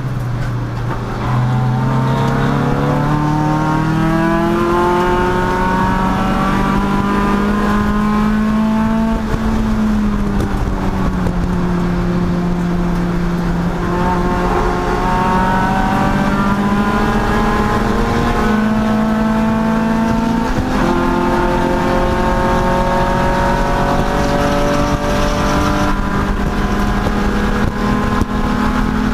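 Race car engine under hard acceleration on track, its pitch climbing steadily and dropping back several times as it shifts gears and lifts, then climbing again.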